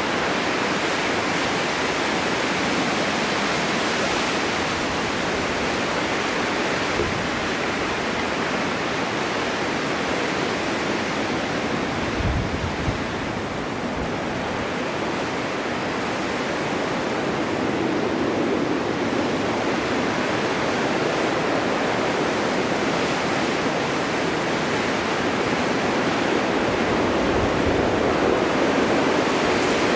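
Snowstorm wind blowing across open ground, a steady rushing that grows a little louder in the second half, with a couple of brief low thumps about twelve seconds in.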